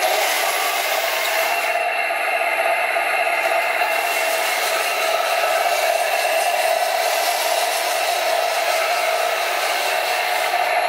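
Heng Long 1/16 RC tank running with a steady whirring noise, from its electric drive and gearboxes and its TK22 sound unit, that holds evenly throughout.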